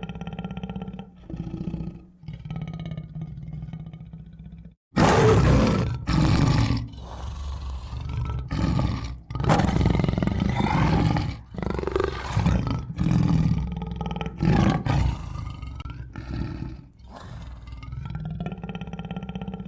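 Tiger growling, then, about five seconds in, a sudden run of loud roars lasting some ten seconds before it drops back to quieter growls.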